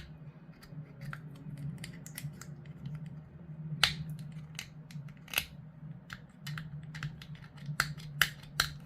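Sharp, irregular clicks and snips of small plastic model parts being handled and trimmed while a mold line is cleaned up, with a few louder clicks about four and five seconds in and twice near the end.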